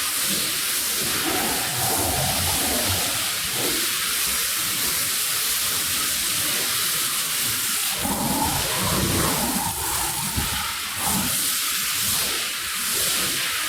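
Water spraying hard onto a soaked, mud-caked rug: a steady hiss with uneven splashing and spattering, heavier about two thirds of the way through.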